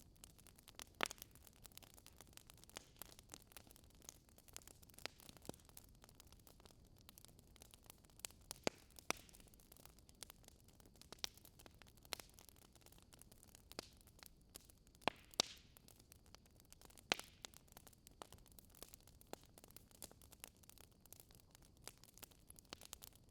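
Wood fire crackling softly: irregular sharp pops and snaps over a faint steady hiss, with a handful of louder pops scattered through.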